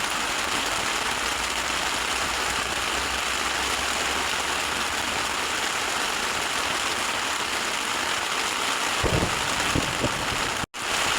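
Very heavy rain pelting steadily on a tent, with a few dull thumps about nine seconds in.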